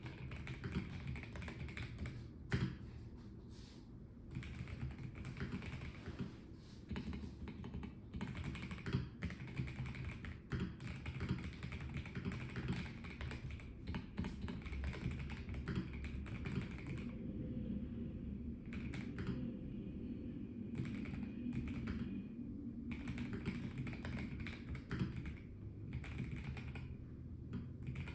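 Typing on a Melgeek Mojo84 plastic-cased mechanical keyboard: dense runs of keystroke clicks with brief pauses. The typing thins out for a few seconds past the middle.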